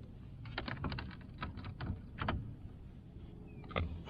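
A quick series of sharp clicks and taps, about a dozen in two seconds, with one more near the end, from a freshly landed jack crevalle and the gear around it as it is handled in a kayak.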